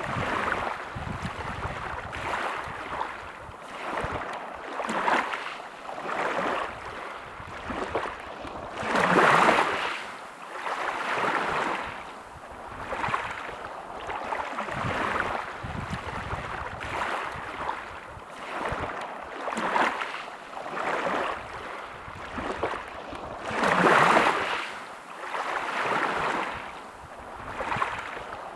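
Small sea waves washing in and out on the shore, a rushing hiss that swells and fades every second or two, with two bigger waves breaking about a third of the way in and near the end.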